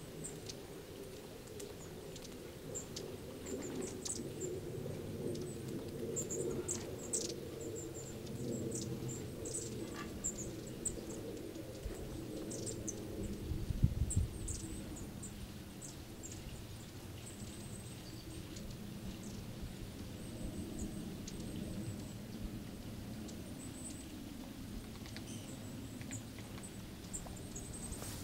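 Long-tailed tits calling: many short, very high, thin calls scattered throughout, over a low steady rumble. A brief low thump about halfway through is the loudest sound.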